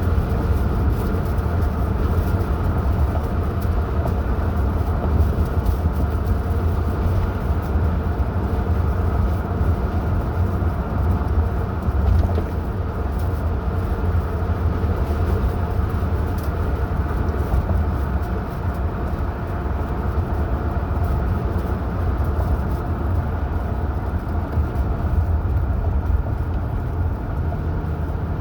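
A car driving at a steady pace, with a constant low rumble of engine and tyre noise.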